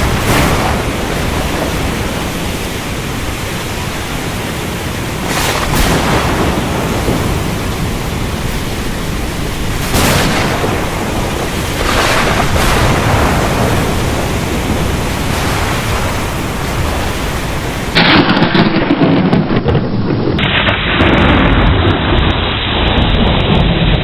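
Heavy rain falling steadily under continuous rolling thunder, with several sharper cracks and swells in the rain along the way. About 18 seconds in, the sound turns suddenly duller and more muffled.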